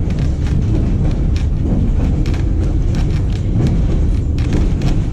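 White Pass & Yukon Route passenger train running, heard from aboard: a steady low rumble with irregular clicks and rattles of the wheels and cars on the track.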